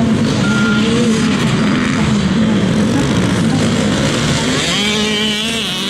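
Off-road racing engines running and revving, several overlapping; near the end a higher, buzzier engine revs up and back down.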